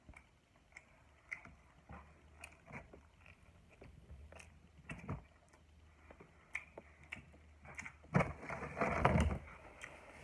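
Close-miked chewing and wet mouth sounds from eating, a scatter of small clicks and smacks, with a louder stretch of noise about eight seconds in.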